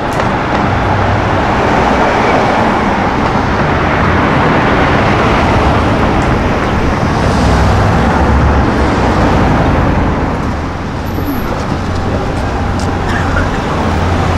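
Road traffic with car engines running, a steady low rumble without sharp revs.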